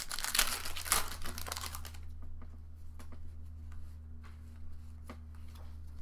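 Foil Pokémon booster pack wrapper crinkling and tearing open for about two seconds, then scattered light clicks and taps of trading cards being handled, over a steady low hum.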